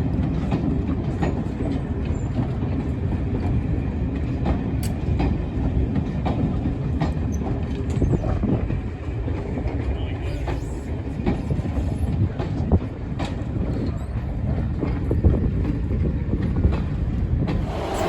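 A train running on the rails: a steady low rumble with scattered sharp clicks and knocks from the wheels and track.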